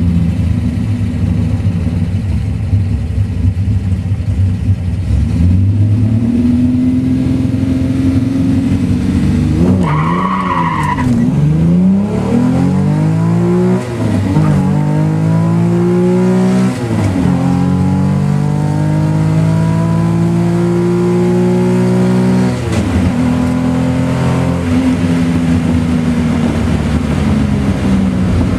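Holden Torana XU-1's straight-six, heard from inside the cabin, making a drag-strip run. It is held at high revs on the start line, then launches with too many revs, and a squeal about ten seconds in is the wheelspin. The engine then rises through three upshifts, each a sudden drop in pitch, before the driver lifts off and it settles to a steady note.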